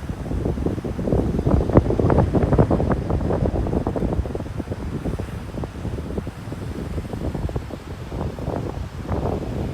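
Wind buffeting the microphone in gusts, over ocean surf breaking on the beach. The gusts are strongest in the first few seconds and ease off after that.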